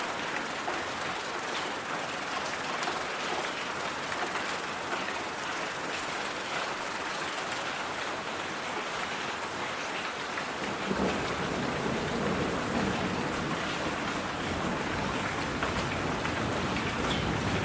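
Steady rain noise with faint scattered drop ticks. About eleven seconds in, a deeper low layer joins and the sound gets a little louder.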